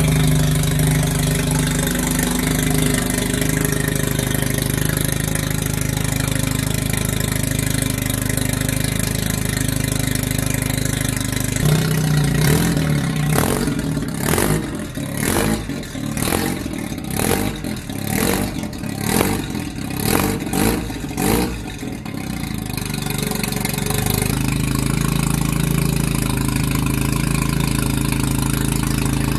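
Mazda RX-7 FD3S's twin-rotor 13B rotary engine running on its first start after a single-turbo conversion, exhausting through a bare downpipe with no muffler. It idles steadily, then from about twelve seconds in the revs rise and fall about a dozen times in quick pulses, before it settles back to a steady idle near the end.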